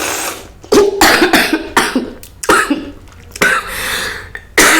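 A person coughing and clearing their throat several times in short, breathy bursts while eating rice with spicy fish curry, the spice catching in the throat.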